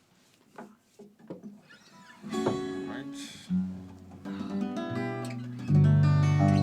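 Guitar played loosely between songs: after a couple of seconds of soft clicks, single notes and chords ring out, then a louder low chord about two thirds of the way in that sustains and slowly fades.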